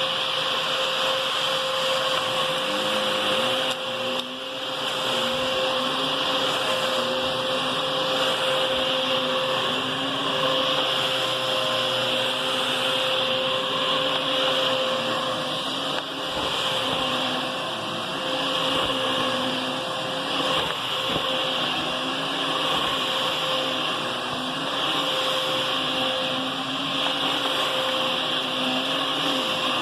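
Hoover Whisper Cyclonic upright vacuum cleaner running steadily, with a high whine over its airflow noise and a lower tone that wavers up and down.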